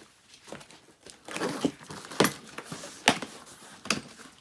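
Engine kit parts and packaging being handled: rustling, then three sharp clinks or knocks a little under a second apart.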